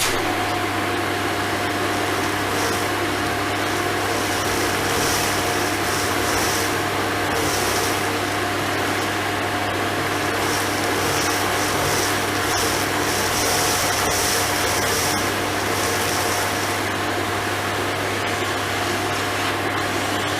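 Philips vacuum cleaner running steadily with a constant whine, sucking up dust and rubber bands; a higher hiss comes and goes in stretches as the nozzle works.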